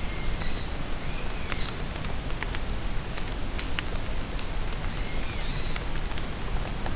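Steady rain in a forest, with drops pattering and ticking on leaves, and a songbird singing three short high chirping phrases: one right at the start, one about a second and a half in, and one around five seconds in.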